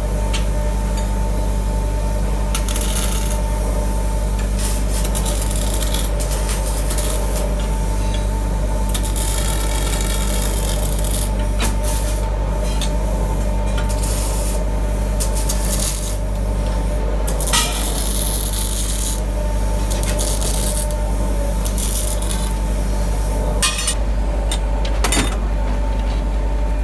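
An electric workshop machine hums steadily while metal is rubbed and scraped against it in repeated stretches. A few sharp metal clinks stand out now and then.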